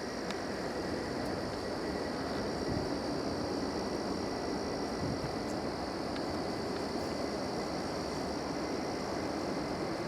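Airbus A330-200 airliner's jet engines at take-off power, a steady rushing noise with a thin, high, steady whine over it.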